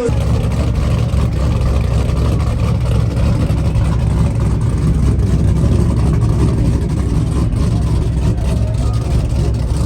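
A vehicle engine running loud and steady with a deep, low rumble.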